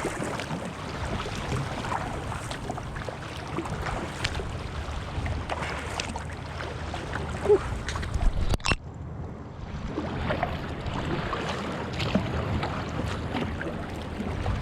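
Wind buffeting the microphone and water splashing around a kayak on rough, fast-moving water: a steady rushing noise with small scattered splashes, broken by a brief sharp break a little past the middle.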